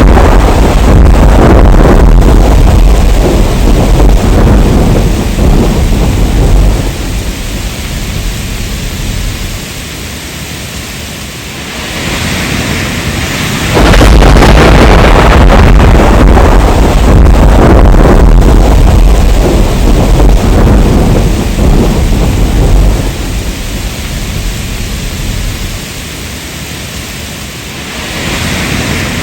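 Heavy rain with loud, deep rolling thunder. The rumble eases after about seven seconds, then comes back abruptly halfway through and eases again, as in a repeating loop.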